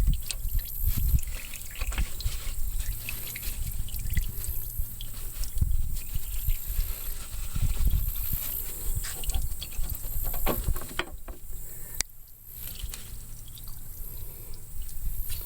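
Scattered light clicks and knocks of hand work on a tractor's hydraulic steering cylinder being taken apart, with uneven low thumps.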